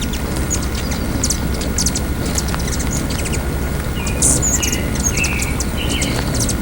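Hummingbirds chittering: rapid, sharp high chips, with a few short buzzy notes about four to six seconds in, over a steady low rumble.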